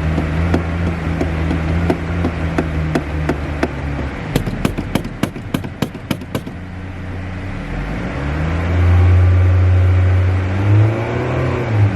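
Car engine running steadily, then a quick run of sharp clicks for about two seconds with the engine note dropped away. The engine comes back, climbs to a held high rev, and ends with a few quick revs rising and falling.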